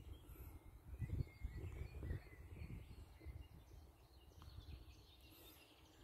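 Faint chirping of small birds, scattered calls that come and go, over an uneven low rumble.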